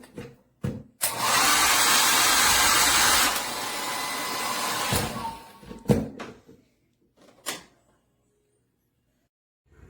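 Conair 1600W wall-mount hair dryer blowing: a steady rush of air that starts about a second in, steps down to a quieter level about two seconds later and stops around five seconds in. A few sharp clicks come before and after it.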